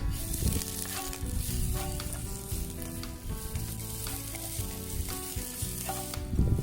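Food sizzling as it fries in a pan, a steady hiss, with background music.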